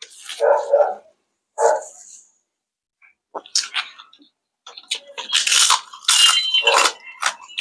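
Two short, sharp sounds in the first two seconds, then loud crackly crunching from about three and a half seconds in, as crispy fried chicken skin is bitten and chewed close to the microphone.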